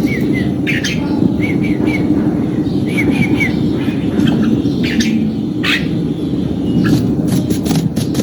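Red-whiskered bulbul calling: quick runs of short arched notes, then scattered sharp notes, over a loud, steady low rumble.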